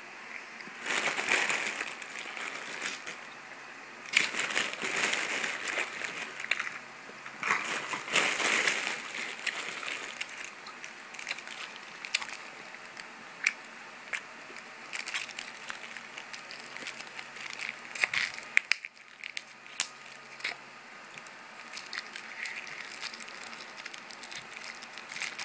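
Candy being chewed and crunched close to the microphone, with a plastic candy wrapper crinkling. Three loud stretches of crunching and crinkling come in the first ten seconds or so, then softer scattered clicks and crackles.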